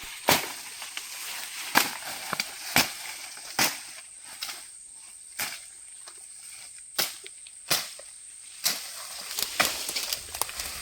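A series of sharp knocks or cracks at uneven intervals, about one a second, over a thin steady high-pitched whine.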